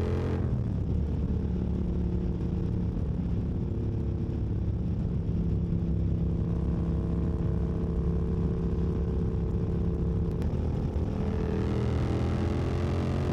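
Yamaha MT-07's parallel-twin engine running at a steady pace while riding, then picking up revs near the end as the bike accelerates.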